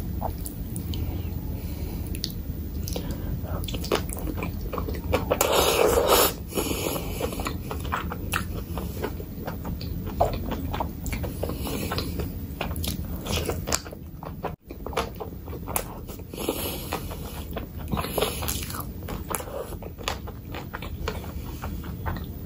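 Close-miked chewing and biting as spicy mutton curry with rice is eaten by hand: a dense run of wet mouth clicks and smacks, with a louder burst of noise about six seconds in.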